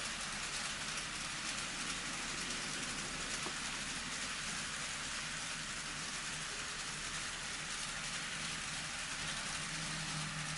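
N scale model trains running on layout track: a steady hiss of metal wheels on the rails, with a low motor hum that grows stronger near the end.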